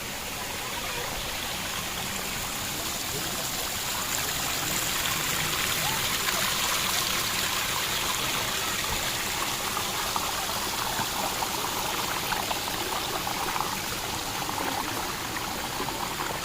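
Water running over rocks in a rocky stream below a waterfall: a steady rushing that grows a little louder a few seconds in.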